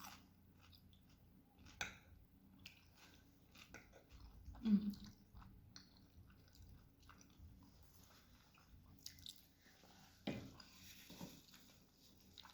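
A person eating lagmon noodles close to the microphone: quiet chewing with small wet mouth clicks, and one short louder low vocal sound about five seconds in.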